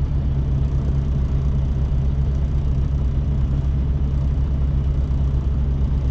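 Semi truck's diesel engine running steadily at low revs, a deep even hum.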